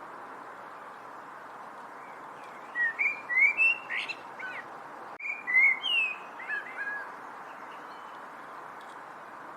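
A songbird singing two short phrases of quick, slurred whistled notes, the first about three seconds in and the second just after five seconds, with faint higher chirps, over a steady background hiss.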